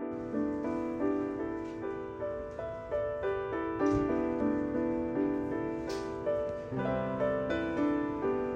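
Background music: a gentle piano melody of quick, evenly struck notes.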